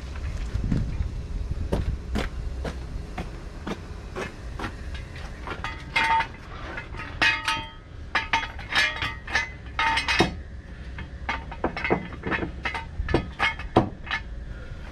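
Metal tools clinking and clanking, dozens of sharp knocks and clinks, several with a brief metallic ring, thickest in the second half, over a steady low rumble.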